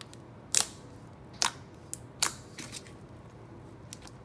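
Foam slime being squished and stretched by hand, giving a few sharp clicks and pops about half a second apart in the first half, then quieter handling.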